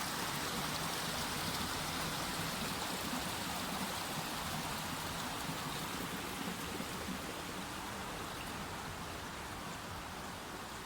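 Small mountain stream flowing: a steady rush of running water that grows slightly quieter towards the end.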